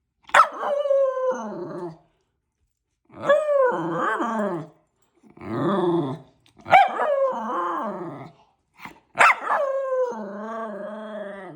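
Miniature schnauzer 'talking' back: about five drawn-out, wavering growly howls and grumbles, several opening with a sharp high yip that slides down in pitch.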